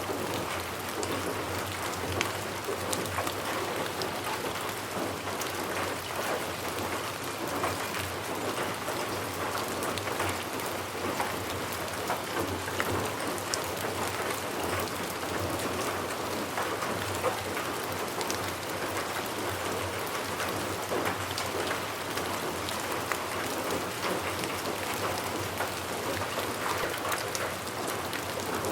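Steady rain falling, an even hiss with many individual drops heard as sharp ticks.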